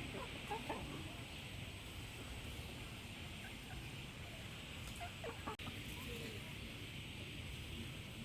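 Domestic fowl giving short calls, a couple about half a second in and a few more about five seconds in, over a steady background hiss.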